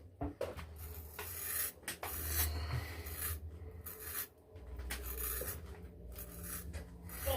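8/8 straight razor scraping through lathered beard stubble in a series of irregular rasping strokes with short pauses between them, a first pass with the grain.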